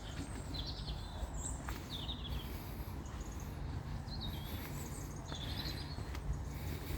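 Small birds chirping, with short high notes every second or so over a steady low rumble.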